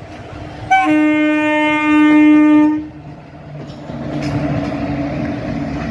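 Indian Railways WAG-5HA electric locomotive sounding its horn in one steady blast of about two seconds. It is followed by the running noise of the locomotive and its wheels as it passes close by.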